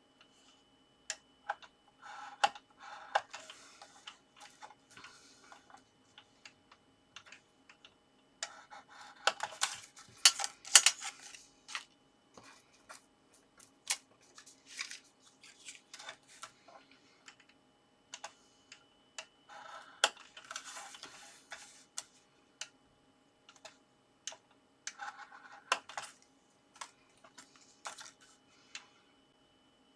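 Scoring tool scraping along paper strips to score dashed fold lines, in about five runs of short scratchy strokes, with sharp clicks and taps of the tool and paper on the work surface between them.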